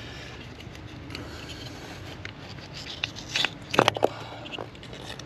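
Plastic clicks and rattles of ignition coil packs being unclipped and pulled from the engine, with a louder cluster of clicks a little past halfway.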